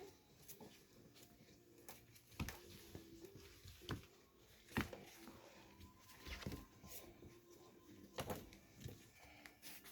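Four-week-old Irish Wolfhound puppies scuffling and playing: faint, irregular knocks and thumps, the loudest about five seconds in.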